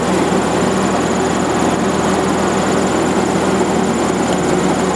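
The 11 hp four-cylinder flathead Hercules engine of a 1943 Minneapolis Moline generator set is running steadily with the generator switched on and taking load. A thin, steady high-pitched whine sits over the engine's even running.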